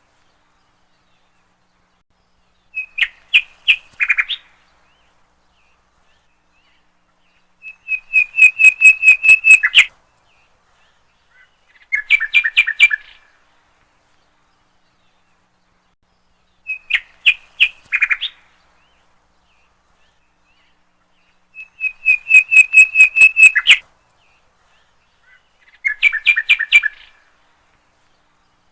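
A bird chirping in six short phrases of quick repeated notes, each lasting one to two seconds, with a phrase every four to five seconds and silence in between.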